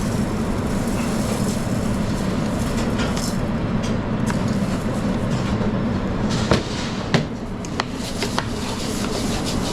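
A large batch of rice being worked in a pan over a steady low drone of kitchen noise, with a few sharp utensil knocks in the second half.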